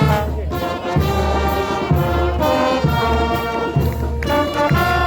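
Brass band playing a tune: trombones and trumpets over a steady bass drum beat.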